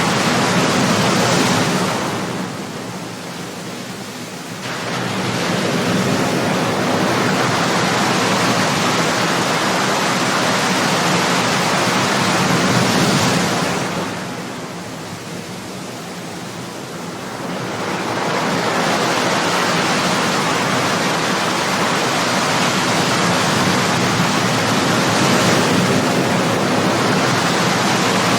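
Ocean surf: waves breaking and washing ashore in a continuous rush. The sound eases twice for a few seconds between waves, then swells again.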